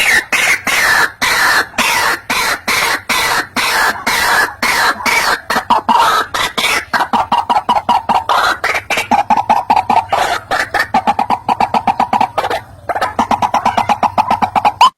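White-breasted waterhen (ruak-ruak) calling: a long, fast run of loud, repeated harsh notes with a brief pause near the end. It is a recorded lure call of the kind played to draw the bird in for trapping.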